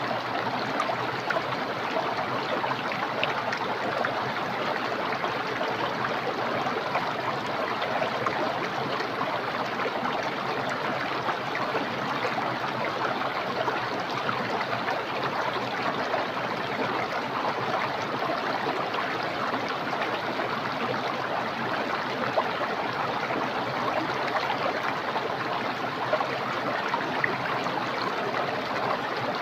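Small, clear, swift-flowing stream, a steady rushing and babbling of water.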